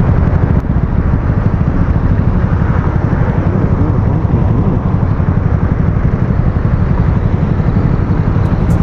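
Aveta Ranger 110's small single-cylinder engine running close to a helmet-mounted action camera: a steady, loud low rumble that buries the rider's voice.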